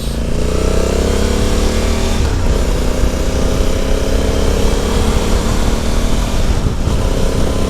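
Honda Africa Twin CRF1100L's 1084 cc parallel-twin engine pulling under acceleration, its note rising over the first two seconds. It breaks off briefly about two seconds in and again near the end.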